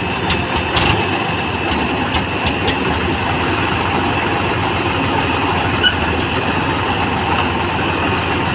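Heavy diesel machinery engine running steadily, with a few light clicks in the first three seconds and another near six seconds.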